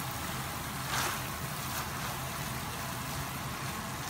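Minced beef, vegetables and tomato sizzling steadily in a stainless steel pot while a plastic spatula stirs them, with one louder scrape about a second in. A low steady hum runs underneath.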